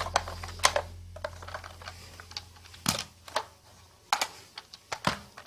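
Scattered plastic clicks and knocks from handling the LG vacuum cleaner's brush head and neck joint. A low hum fades out over the first three seconds.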